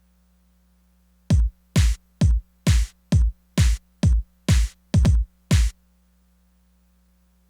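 Korg Electribe Sampler ES2 playing about ten short, punchy kick-drum hits, roughly two a second with one quick double near the end. Each is a deep thud dropping in pitch, with a hiss on top. Faint steady hum before and after.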